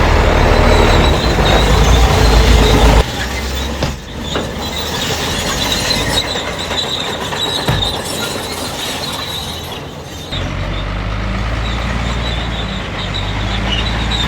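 Heavy earthmoving machinery at work: the diesel engines of a crawler bulldozer and dump trucks run with a thin, steady, high squeal, like crawler tracks. The sound changes suddenly about three seconds in and again about ten seconds in, and a steady low engine hum takes over near the end.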